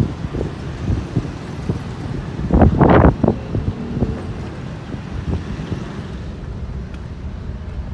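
Wind buffeting the microphone over a steady low rumble, with one louder gust-like burst about three seconds in.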